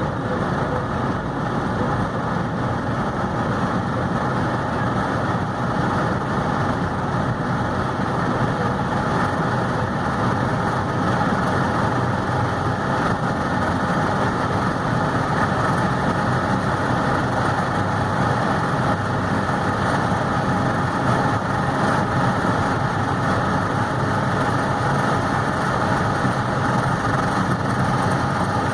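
Golf MK3 VR6's six-cylinder engine pulling steadily at high speed under load, its note blended with a steady rush of wind and road noise. The pitch holds level with no gear changes, the repaired 01M automatic staying in one gear.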